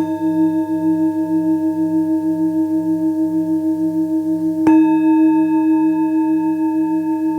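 Singing bowls struck and left ringing: one strike right at the start and another about four and a half seconds in, each adding bright overtones over low, steadily pulsing hums that carry on throughout.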